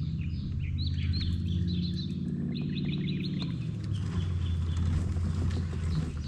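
Birds calling: clusters of short, quick chirping notes, busiest in the first half and thinning out later, over a low steady rumble.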